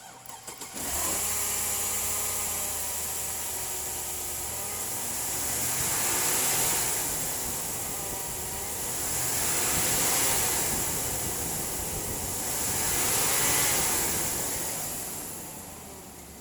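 2002 Chevrolet Tahoe's V8 engine cranking briefly and starting about a second in, then running and being revved up and back down three times before dropping back to idle near the end.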